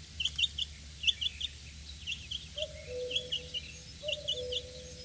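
Baby chickens (chicks) peeping: many short, high chirps in quick clusters of two or three, going on all through. A faint low steady tone comes in about halfway.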